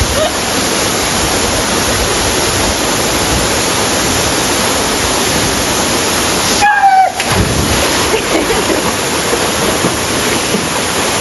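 Loud, steady rushing of a waterfall heard close up, its spray hiss spread evenly from low to high. About seven seconds in it dips for a moment and a brief falling voice-like call cuts through.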